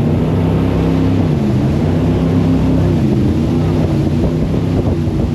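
Jet boat engine running at speed over the rush of water, its pitch dipping about a second and a half in and climbing again a little later as the driver changes throttle.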